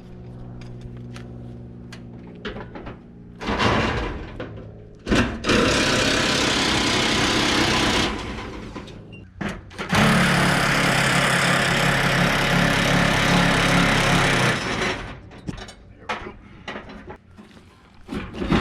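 A power tool driving a 9/16 socket runs in three bursts, loosening bolts: a short burst, then two long runs of several seconds each.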